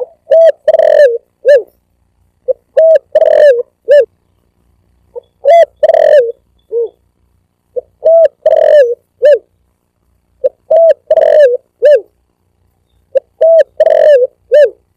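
Spotted dove (tekukur) cooing loudly in repeated phrases, about six of them, roughly every two and a half seconds. Each phrase is a few short coos and one longer coo. This is the song used as a hunting lure to call doves in.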